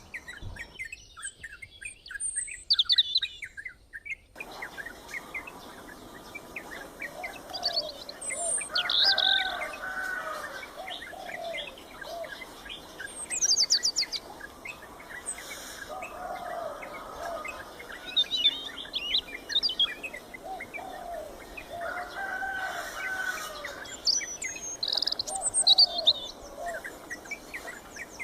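Black-naped oriole calls mixed with other birds' high chirps and trills. A lower, fluty whistled phrase comes back every few seconds. The sound is quieter for the first few seconds, then the outdoor background comes in.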